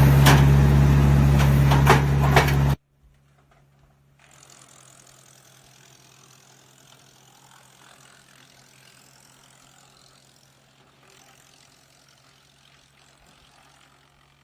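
Tractor-driven BX52REU wood chipper running loud with a few sharp cracks for nearly three seconds, then cutting off suddenly. After that only a faint steady hum and faint hiss remain.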